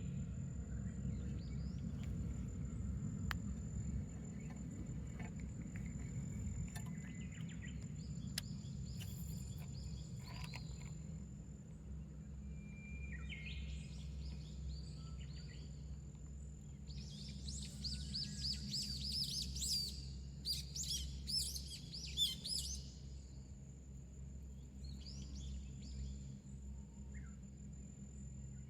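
Wild birds singing in short phrases, with a busier stretch of song past the middle, over a steady low rumble.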